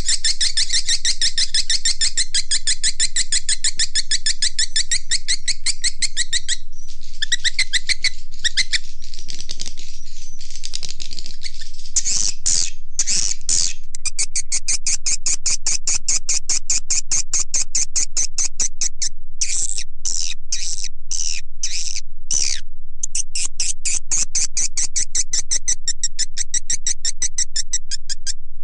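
Swiftlet lure call track: fast trains of high, buzzy chirps from swiftlets, made to be played to draw them into a nesting house. The twittering runs dense and unbroken, then breaks into short separate bursts with brief gaps in the middle, before running dense again.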